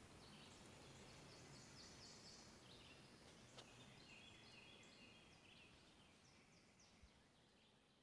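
Faint birdsong: several series of short, quick high notes over a soft outdoor hiss, with a single light click about three and a half seconds in.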